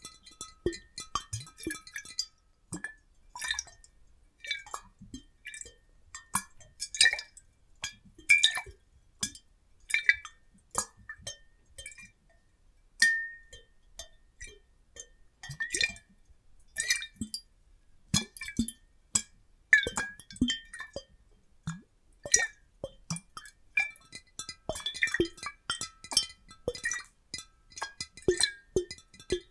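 Glass bottles holding water being clinked and tapped in an irregular patter of sharp clicks, many of them ringing briefly with a bright glassy tone.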